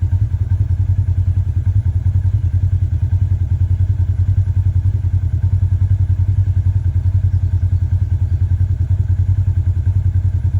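A vehicle engine running steadily: a loud, low rumble with a fast, even throb and no change in speed.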